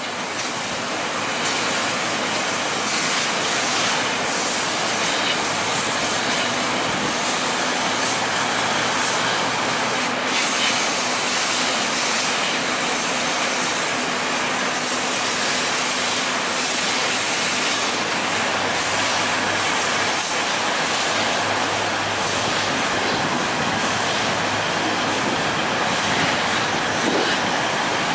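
Union Pearson Express diesel multiple unit rolling slowly along the station tracks, its engines running under a steady rumble of wheels, rail and surrounding city noise.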